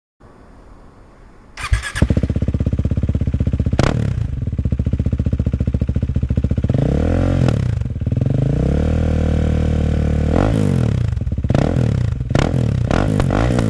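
KTM Duke 390's single-cylinder engine, breathing through an Akrapovic exhaust with the dB-killer removed, firing up about two seconds in, then idling with a steady beat between repeated throttle blips that rise and fall in pitch, the blips coming faster near the end.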